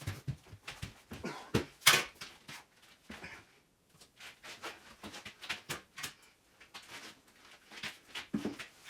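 Irregular knocks and clatters of objects being handled and set down, with one louder knock about two seconds in.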